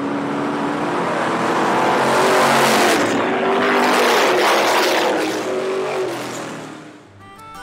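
Alcohol-fuelled race cars running on the track, their engine noise building to a peak and then fading away near the end.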